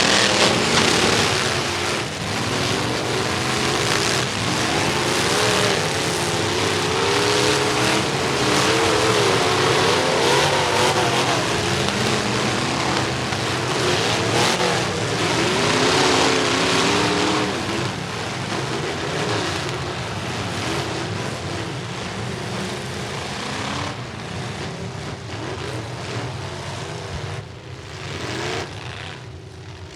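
Demolition derby trucks' engines revving up and down together over crowd-level noise, with occasional bangs of metal striking metal. The engines fade somewhat in the last third.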